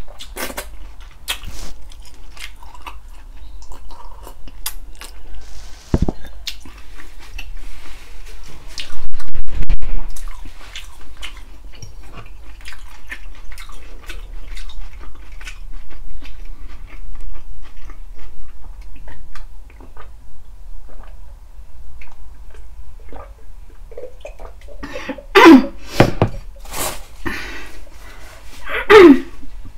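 Close-miked wet chewing and lip-smacking with many small sticky mouth clicks, from a person eating pork-feet balbacua. There is a brief loud low thud about nine seconds in, and two louder short sounds with falling pitch near the end.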